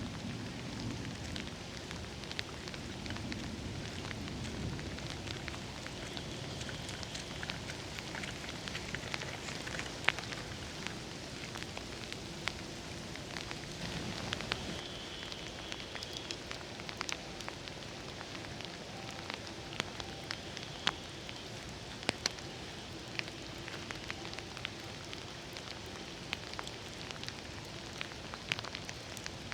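Steady rain falling, with frequent sharp ticks of drops landing close by.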